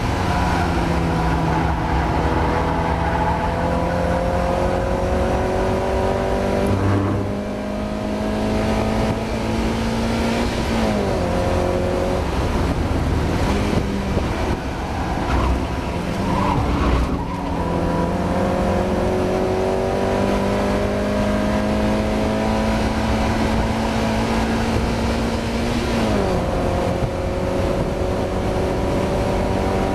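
Race-prepared Mazda MX-5 inline-four engine heard from inside the car at race pace. Its pitch climbs steadily under full throttle and drops sharply at upshifts, about 7 seconds in and again near the end. In the middle it falls away, with quick rev blips as the car brakes and changes down for a corner, then pulls up again.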